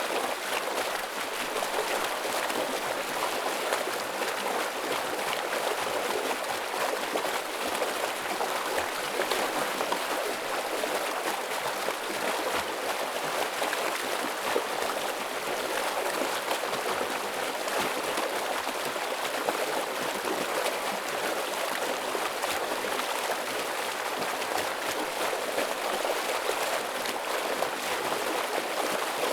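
A forest stream rushing steadily over rocks, a dense, even splashing and gurgling of fast-flowing water.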